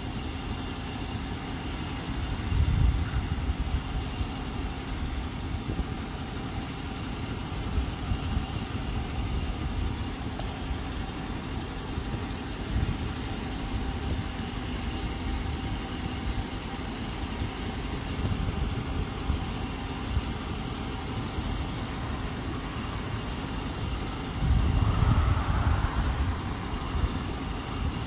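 A vehicle engine idling steadily with a low rumble, growing louder for a couple of seconds near the end.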